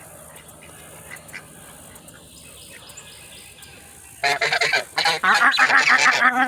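Domestic geese honking: a quick, loud run of repeated honks that starts about two-thirds of the way in, after a few seconds of quiet background.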